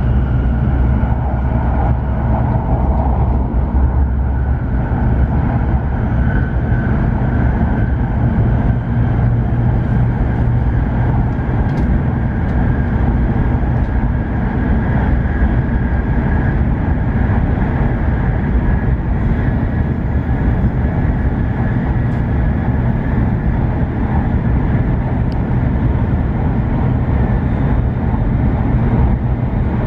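Steady low rumble of a W7-series Shinkansen running at speed on a viaduct, heard inside the passenger cabin, with a faint steady high whine above it.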